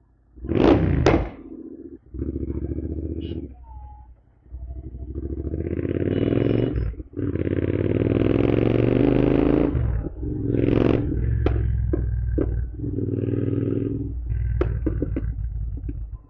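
Royal Enfield Continental GT 650 parallel-twin with a Code 6 tune, revved in a series of throttle blips and one long rising rev in the middle. Sharp pops and bangs crack from the exhaust as the throttle closes after the later revs.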